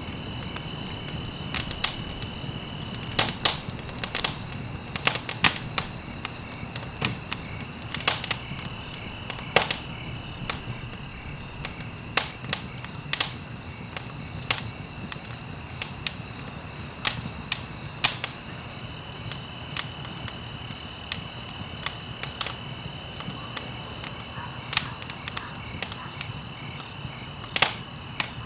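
Wood fire crackling and popping: irregular sharp pops, bunched in places and spaced out in others, over a low rumble of the flames, with a steady high-pitched tone underneath.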